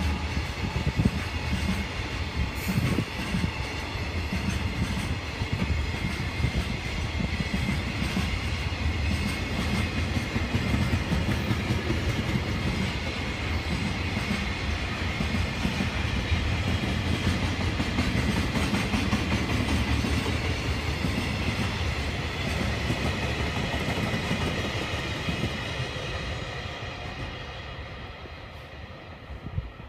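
Freight train hauled by a JR Freight EH500 electric locomotive passing, a steady rumble of wagon wheels on the rails that fades away over the last few seconds.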